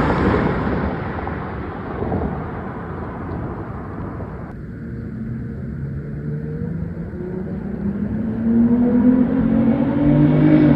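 Naturally aspirated V6 car engine through its stock exhaust: the noise dies down over the first few seconds, then the engine note climbs steadily in pitch and grows louder as the car accelerates.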